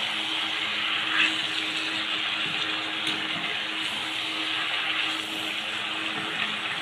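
Ash gourd pieces frying in mustard oil in a pan, a steady sizzling hiss, with a faint steady hum underneath.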